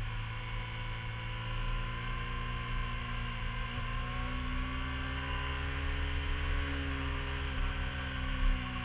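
Sport motorcycle engine running steadily under the rider through a series of curves, its note rising a little about halfway through and dropping back, over a low rumble. A brief louder low bump comes near the end.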